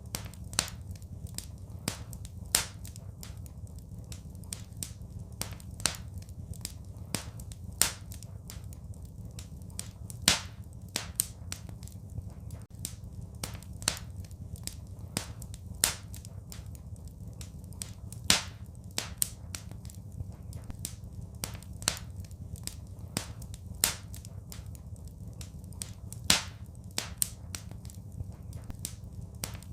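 Wood fire crackling in a fireplace: irregular sharp pops and snaps, a few louder ones every couple of seconds, over a steady low rumble of the flames.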